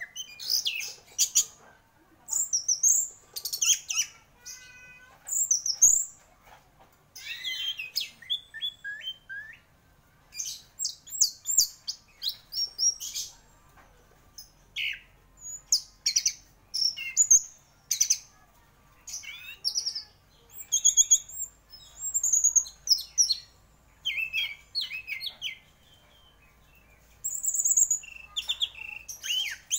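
Orange-headed thrush singing energetically: phrase after phrase of quick, varied high chirps, trills and whistles, each burst separated by short pauses.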